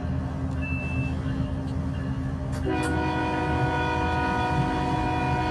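A train's horn sounding a long, steady chord over the low rumble of a moving train. The horn is silent for the first couple of seconds and blasts again about three seconds in.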